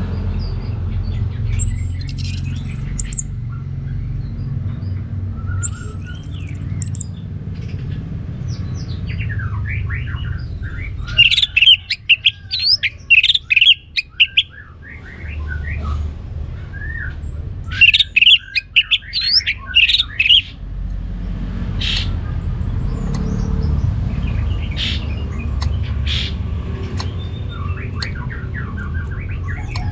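Orange-headed thrush singing: a couple of thin, high drawn-out whistles, then two bursts of quick, varied warbling phrases a few seconds apart, with scattered shorter notes afterwards. A steady low rumble runs underneath.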